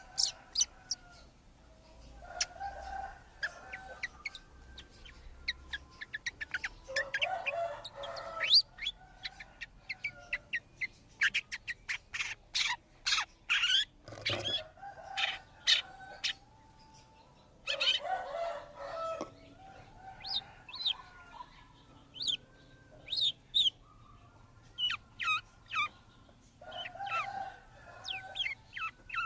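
Small birds chirping in quick runs of sharp, high notes, with a chicken clucking in bouts several times.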